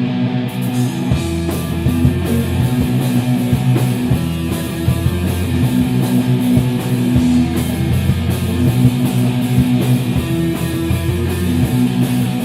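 Rock band playing: a distorted electric guitar and bass riff, with drums and cymbals coming in about half a second in.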